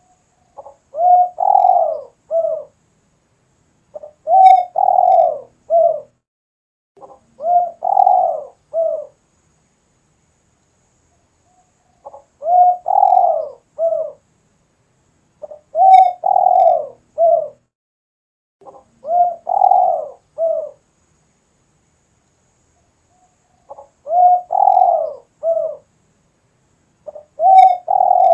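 Spotted dove (derkuku, tekukur) cooing over and over: a three-part coo phrase, short note, long note, short closing note, repeated about every three to four seconds, eight times, in full song.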